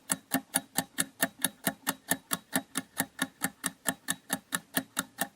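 Quiz countdown-timer sound effect: a clock ticking evenly at about four ticks a second.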